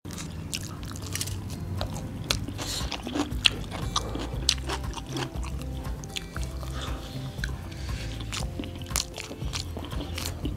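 Close-up eating sounds of people biting into and chewing fried bhatura bread with chole, with many irregular crisp crunching clicks, over background music.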